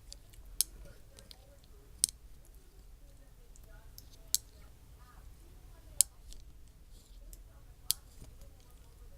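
A debubbling utensil knocking against the inside of glass canning jars packed with chicken gizzards and broth, freeing trapped air. It gives five sharp clicks, one every two seconds or so.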